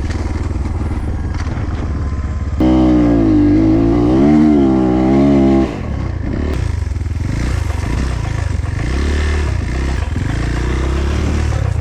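Dirt bike engine running. About two and a half seconds in it is revved high and held, wavering up and down for about three seconds, then drops back sharply and runs lower with several short rises in revs.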